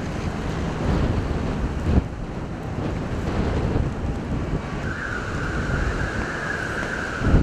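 Strong gusty wind buffeting the microphone in a loud, rumbling rush that swells and dips. About two-thirds of the way in, a steady high tone joins it and holds.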